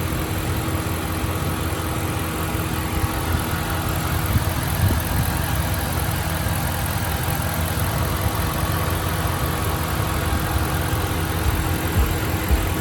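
Dodge Ram Hemi V8 idling steadily after its failed MDS lifter was replaced, with no obvious tick or squeal standing out.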